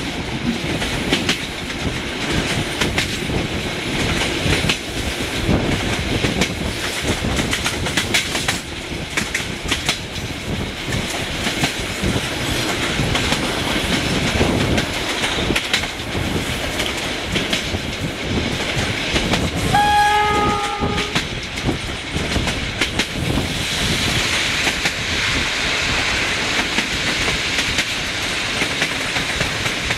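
Passenger train carriages running on the rails with a steady rumble and clicking over the rail joints. About twenty seconds in, the 060-DA diesel locomotive's horn sounds briefly on two notes, one after the other.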